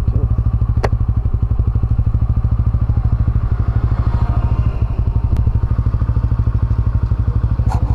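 Motorcycle engine, a Bajaj Pulsar N160's single-cylinder, running at low, steady revs with an even, rapid throb. A couple of sharp clicks sound over it.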